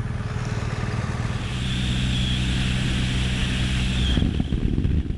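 Motorcycle engine running at a steady pitch, growing a little louder and then cutting off about four seconds in.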